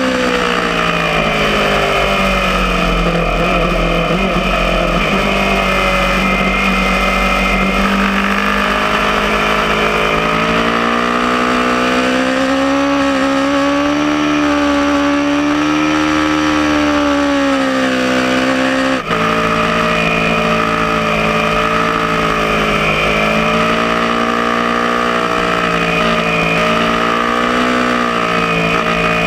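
Aprilia Tuono motorcycle engine running hard on track, its pitch falling and rising over several seconds at a time as the rider accelerates and backs off. A brief drop in level about nineteen seconds in, like a gear change.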